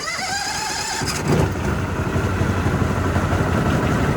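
Truck-mount carpet cleaning machine's engine being cold-started with the choke on: the starter cranks with a rising whine, and about a second in the engine catches and runs steadily.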